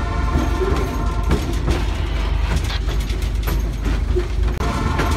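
Rumble and clatter of a moving passenger train heard from aboard, with irregular clicks and knocks from the wheels on the rails. A steady hum runs under it, drops away about a second and a half in, and comes back near the end.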